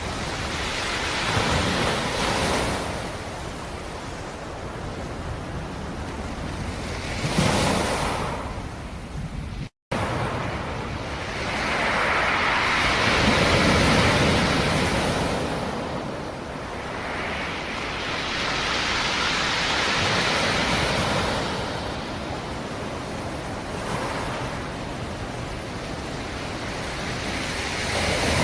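Black Sea surf: waves break and wash in again and again, each surge swelling and fading over a few seconds. There is a brief dropout of a split second about ten seconds in.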